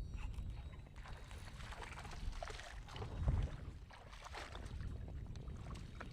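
Water splashing and sloshing around a fishing kayak in several irregular bursts, the strongest a little past the middle, over a low wind rumble on the microphone.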